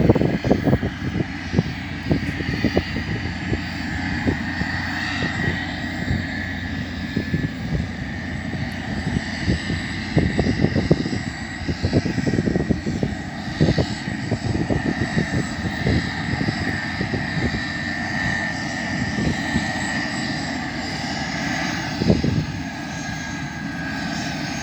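Pilatus PC-12's single PT6A turboprop engine running with a steady high-pitched whine, over irregular low buffeting.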